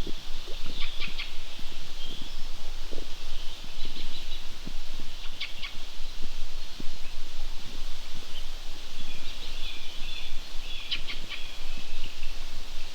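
Small birds chirping and trilling in short high-pitched bursts, a few times, over steady outdoor background noise with faint low knocks.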